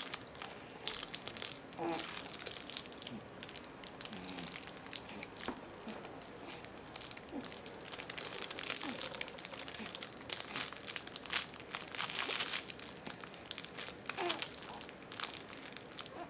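Crinkle toy rustling and crackling in irregular bursts as a baby handles it.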